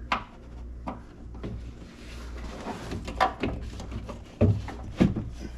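Knocks and clunks from a car door's window glass and regulator being worked into their track by hand, with a short scraping stretch about two seconds in.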